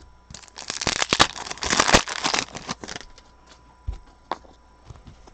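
Foil wrapper of a Panini Prism football card pack being torn open and crinkled for about two and a half seconds, followed by a few light taps as the cards are handled.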